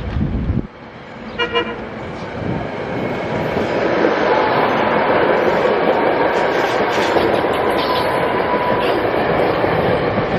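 A SEPTA Regional Rail train gives a short horn toot, then comes through close by, its rumble building to a loud, steady noise with a thin steady whine running through it.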